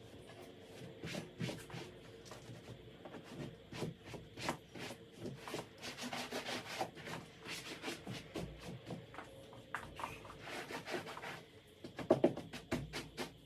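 A cloth rubbing and scrubbing over sofa upholstery in short, irregular strokes, with a cluster of louder strokes near the end.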